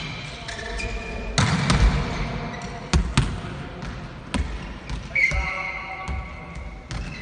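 Volleyballs being struck and hitting the court floor in a gym: a series of sharp smacks at irregular intervals, two of them close together about three seconds in. About five seconds in, a high, drawn-out squeak lasts nearly two seconds.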